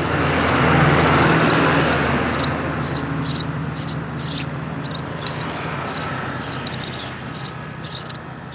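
House sparrows chirping repeatedly in short, high notes. Under them a loud, even rumble of a passing motor vehicle, which comes in just before and slowly fades.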